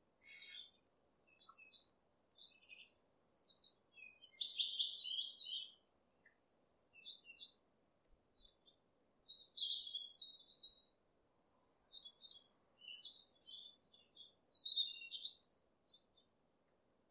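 Small birds chirping and twittering in quick, high phrases, with louder bursts of song about four to six seconds in, around ten seconds, and again near the end.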